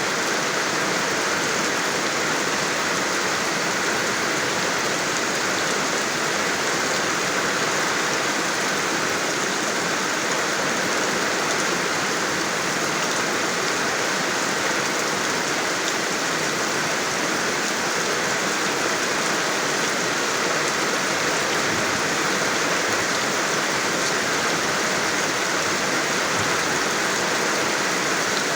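Steady rain falling and pattering on surfaces, an even continuous hiss with no pauses or changes.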